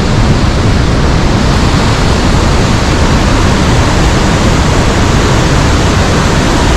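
Large waterfall crashing close by, a loud, steady roar of falling water.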